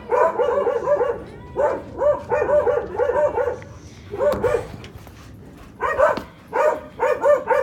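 Dog barking repeatedly in quick runs of several sharp barks, with short pauses between the runs.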